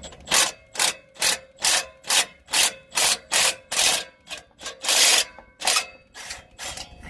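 Ratchet wrench working a 14 mm exhaust flange bolt loose. It gives a steady run of short rasping strokes, about two a second, that grow fainter and sparser near the end as the bolt comes free.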